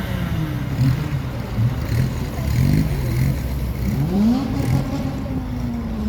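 Car engine revved in a series of quick throttle blips, the pitch jumping up and dropping back several times, then a longer rev about four seconds in that climbs, holds and falls away.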